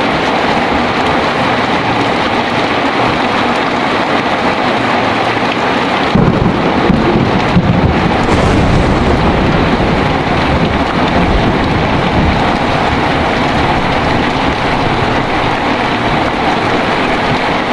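Heavy rain falling steadily, with a roll of thunder that breaks in abruptly about a third of the way through, rumbles for several seconds and fades back under the rain.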